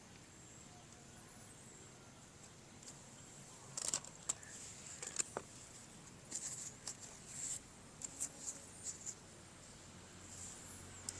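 Faint clicks and rustles of plastic toy parts and packaging being handled, coming in scattered bursts from about four seconds in.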